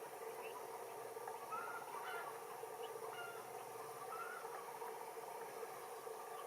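A steady drone of insects, with a few short bird calls now and then.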